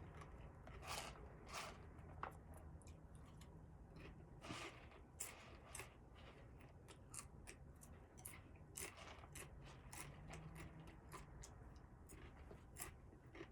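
Faint, irregular crunching of a person chewing a crunchy snack, a quick crackle every second or so.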